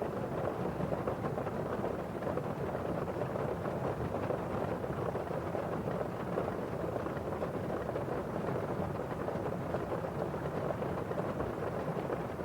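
Steady rain on a windowpane and outside, an even, unbroken hiss with no single drops or claps of thunder standing out.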